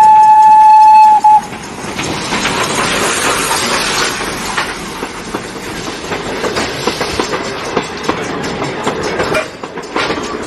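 Odong-odong kiddie ride train sounding a steady horn tone for about the first second and a half, then its carriages rattling and clattering as it runs.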